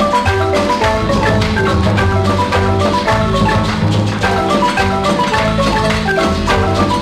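Marimba music: quick runs of short mallet-struck notes over a steady bass line, with light percussion.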